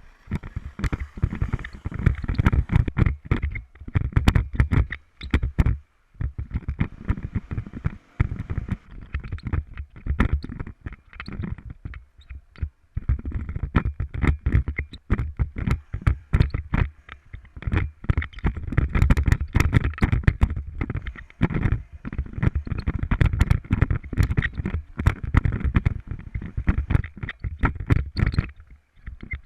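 Heavy, irregular knocking and rumbling of a camera rig being jolted and shaken, as on a motorcycle riding rough, rocky ground, over a steady rushing noise.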